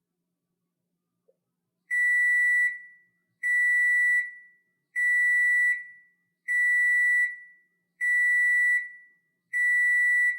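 Washing machine's electronic end-of-cycle signal: six identical high beeps, each a steady tone under a second long, repeating about every one and a half seconds from about two seconds in.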